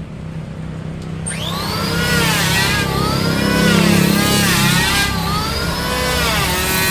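Electric woodworking power tool cutting mahogany: a steady motor hum, joined about a second in by a high whine whose pitch dips and recovers several times as the tool loads up in the wood and frees again.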